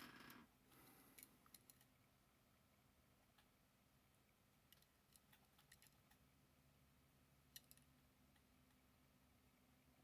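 Near silence: room tone with a few faint, scattered clicks of a die-cast toy car being handled.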